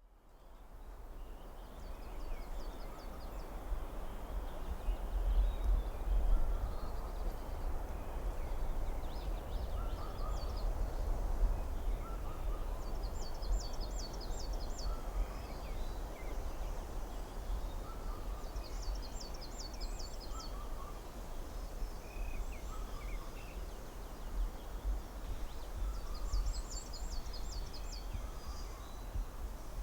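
Forest ambience: a steady low rumble with a soft rustling hiss, and small birds calling. A quick high trill of about seven notes repeats every five or six seconds, with short lower chirps in between. It rises from silence over the first couple of seconds.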